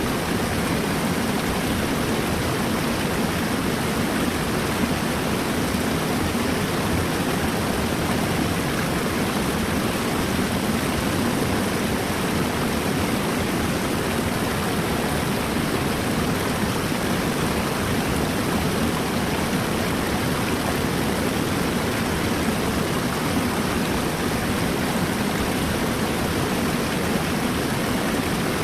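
Flowing river water rushing in a steady, even roar that never changes.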